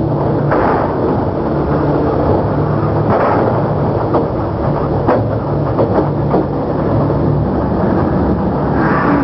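Heavy truck engine running with a steady drone, with a few sharp knocks and clanks over it.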